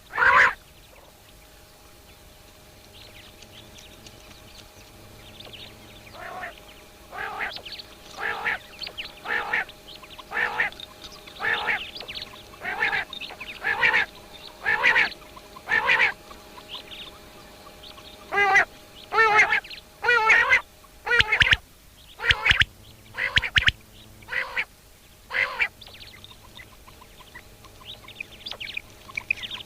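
Common quail calling: a run of short, sharp calls about one a second, starting faintly a few seconds in, growing louder and stopping shortly before the end. A few low thumps come near the middle.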